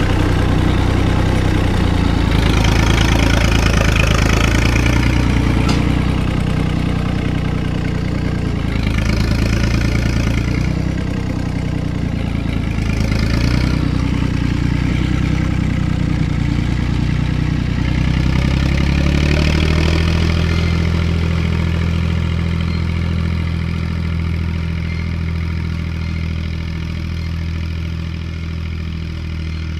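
Tractor engine running steadily, its pitch rising slightly about two-thirds of the way through and then holding.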